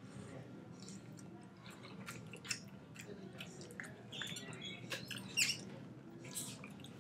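Faint chewing and wet mouth clicks of a man eating soft baked macaroni and cheese, with a few sharper clicks about two and a half and five and a half seconds in.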